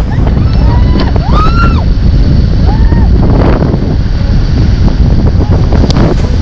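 Rushing whitewater and wind buffeting the microphone on a raft running a river rapid, a loud, steady roar. A few short rising-and-falling cries from the rafters break through it in the first three seconds.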